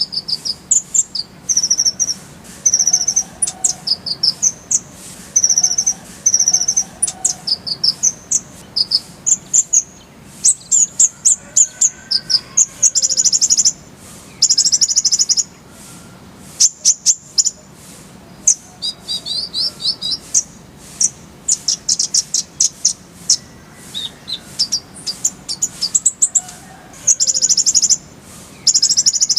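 Kolibri ninja sunbird singing: rapid, very high-pitched chips and fast trills in bursts with short gaps.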